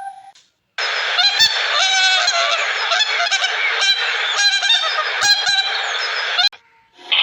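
Geese honking, many short repeated calls over a dense background of flock noise. It starts about a second in and cuts off abruptly near the end.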